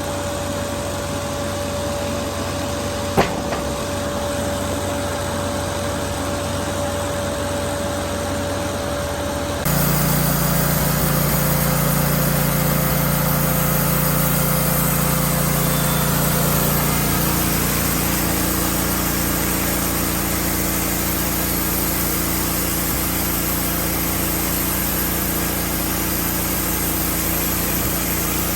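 Wood-Mizer LT15 band sawmill running steadily, with its saw working through pine, and a single sharp click about three seconds in. About ten seconds in the sound changes abruptly to a louder, deeper steady run.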